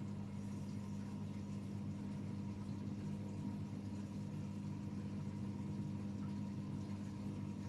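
AEG Öko-Lavamat 76910 washing machine running with a steady, even hum.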